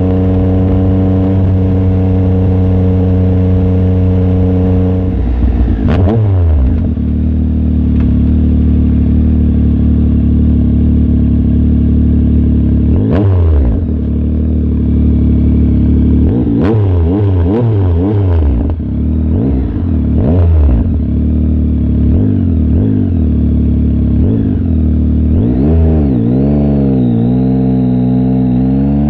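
Yamaha MT-09 SP's three-cylinder engine through a de-baffled aftermarket exhaust, running under way: a steady pitch for the first few seconds, then several times dropping and climbing again as the rider shifts and rolls on and off the throttle, with sharp cracks at some of the changes, and revs rising near the end.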